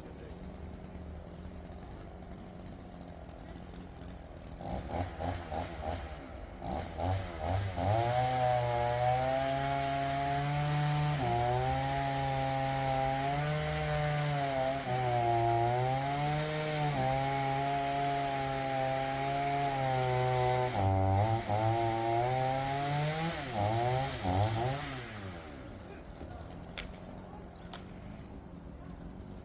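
Makkie 38cc two-stroke chainsaw idling, blipped a few times, then held at full throttle through a cut for about thirteen seconds, its pitch sagging and recovering as the chain loads in the wood. Near the end it revs a few more times and drops back to idle.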